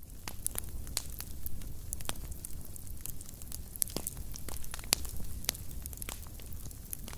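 Fire burning in a fireplace, crackling with irregular sharp pops over a low, steady rumble of flames. The loudest pop comes about five seconds in.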